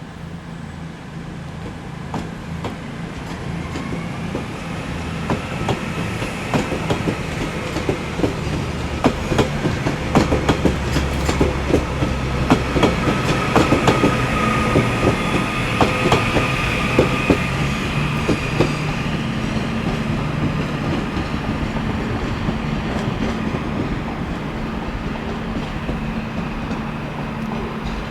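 A train running past on the station tracks, its wheels clicking over rail joints and points, with a steady whine from its drive. The clicking is densest through the middle and thins out later.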